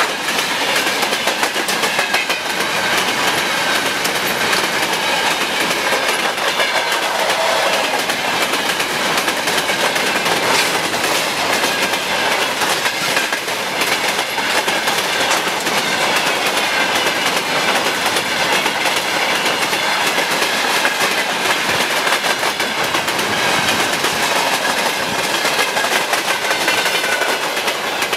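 A long freight train's wagons rolling past behind a VL10K electric locomotive, steady loud clickety-clack of wheels over the rail joints with a wavering metallic ringing above it. It cuts off abruptly at the very end.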